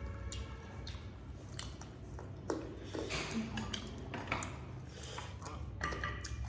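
Utensils clicking and clinking irregularly against bowls and plates during a meal of noodles and chicken.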